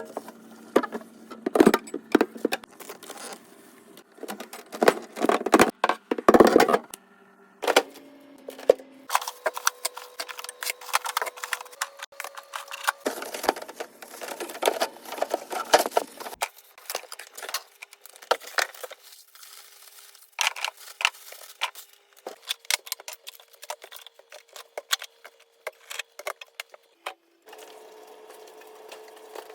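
Irregular clattering, clinking and knocking of items being moved and handled while a refrigerator is cleaned, with short pauses in between and a faint steady hum underneath.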